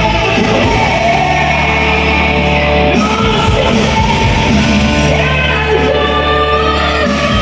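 A woman singing a pop-rock song, with strong, shouted held notes over a loud backing track with heavy bass and guitar.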